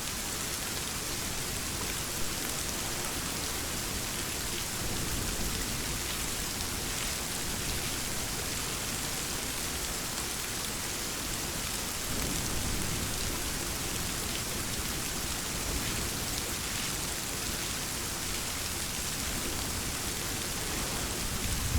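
Steady rain falling, an even hiss of many drops. About halfway through, a faint low rumble of distant thunder swells under it.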